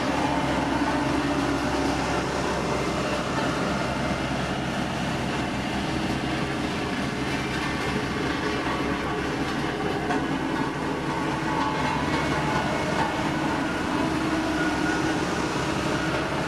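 Heavy diesel road-construction machine running steadily under work, a constant engine drone with a held low hum.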